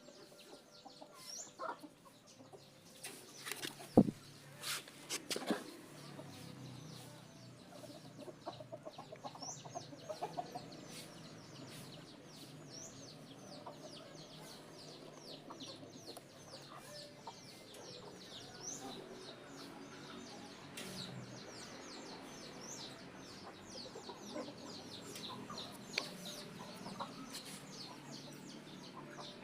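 Chickens clucking on and off, with small birds chirping rapidly throughout. A single sharp knock about four seconds in.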